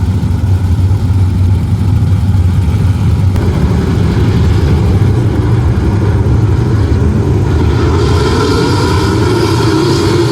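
Sprint car engine running loud and steady, with a higher engine note coming in about eight seconds in.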